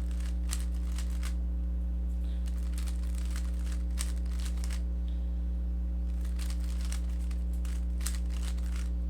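Rubik's cube being turned through an algorithm: quick plastic clicks and clatter of the layers in bursts, pausing briefly twice, over a steady electrical hum.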